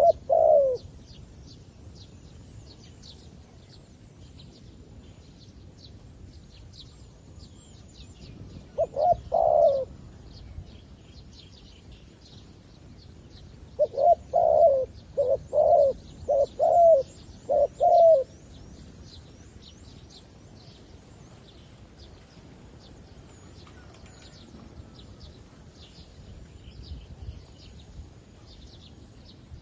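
Zebra dove cooing in short staccato notes: a brief burst at the start, another about nine seconds in, and a run of about six quick coos a few seconds later. Faint high chirping of other small birds carries on throughout.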